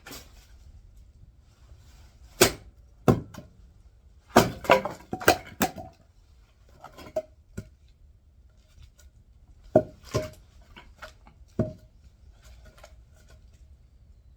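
Firewood being split with an axe: about eleven sharp, cracking knocks in uneven groups, a few of them ringing briefly.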